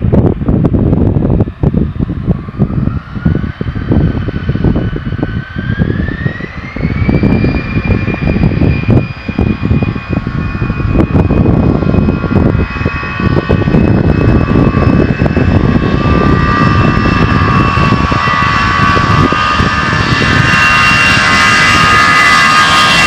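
Airbus A319's twin CFM56 turbofan jet engines spooling up to takeoff thrust: a whine rises in two steps over the first several seconds, then holds steady over a choppy low rumble. The sound grows louder and brighter near the end as the jet comes closer on its takeoff run.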